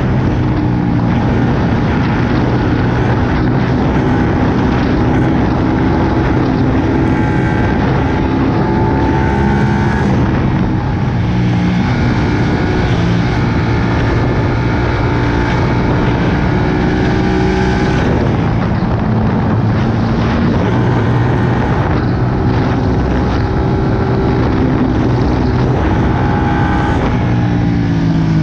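Ducati Panigale 959's L-twin engine running hard under way, its pitch shifting up and down as the revs change. The revs drop right at the end.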